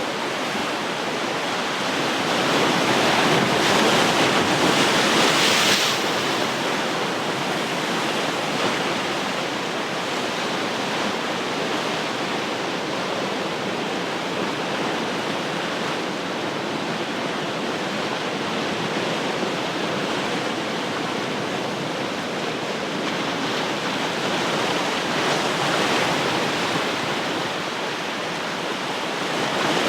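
Ocean surf washing on the shore in a continuous rushing hiss. A louder wave breaks about two to six seconds in, and another swells up near the end.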